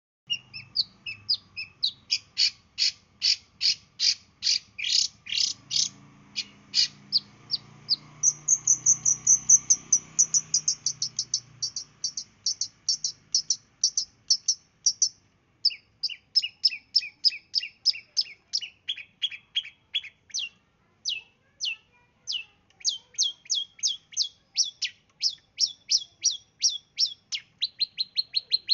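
Long-tailed shrike (cendet) singing a rapid, sustained series of sharp, high notes, about three a second. About eight seconds in they quicken into a fast, higher trill, then settle back into the repeated notes.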